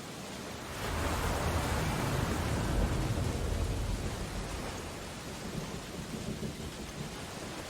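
Storm ambience: steady rain with a deep rumble that swells about a second in and dies away by about five seconds.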